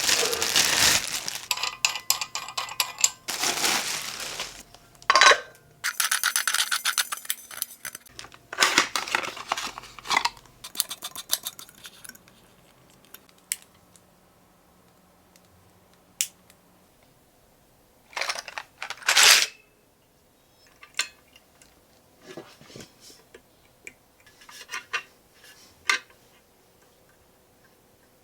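Objects being handled: stretches of rustling and scraping, then scattered light clicks and knocks of hard things being set down.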